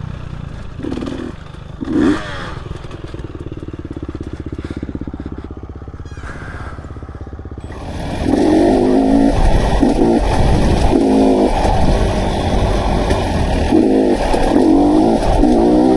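Dirt bike engine running at lower revs for about eight seconds. It then turns abruptly louder, riding under throttle with the engine pitch rising and falling again and again as it revs.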